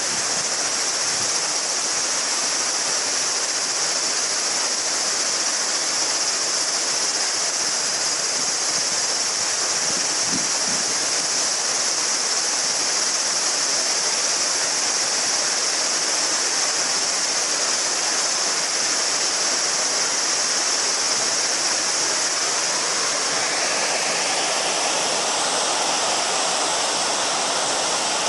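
A shallow mountain river babbling over stones, a steady rush, under a dense chorus of summer cicadas shrilling without a break. Near the end a second, lower cicada song joins in.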